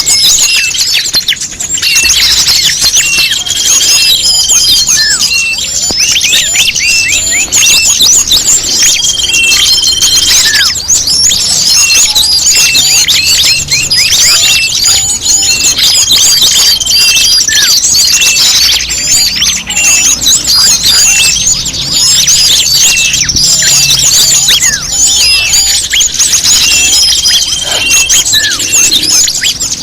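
Bird-lure recording of a dense chorus of small songbirds: many quick, high chirps and squeaky squawks overlapping without pause. A short steady whistle comes back about every six seconds, as the track loops.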